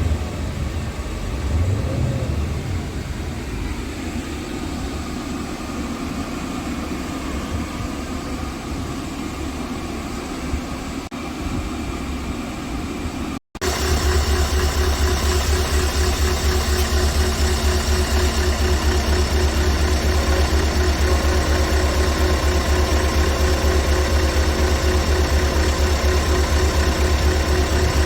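Scania R580 truck's V8 diesel engine idling. About halfway through there is a sudden cut to a louder, very steady deep hum.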